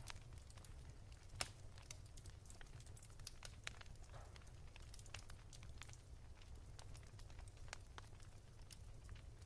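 Soft crackling of a wood fire: faint, irregular pops and snaps over a low steady rumble, with one sharper pop about one and a half seconds in.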